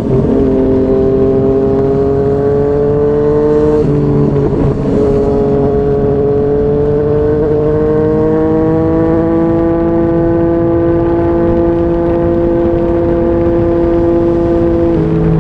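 2020 Yamaha MT-09's three-cylinder engine through a Yoshimura R55 slip-on exhaust, under way on the highway. It shifts up at the start and again about four seconds in, pulls slowly rising in pitch, settles into a steady cruise, and shifts up once more near the end.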